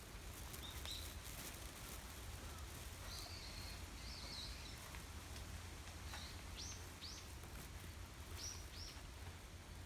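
Wind on a bamboo grove with a low rumble of wind on the microphone, and small birds giving short high chirps: a pair about a second in, a warbling phrase a few seconds in, and a few quick calls later.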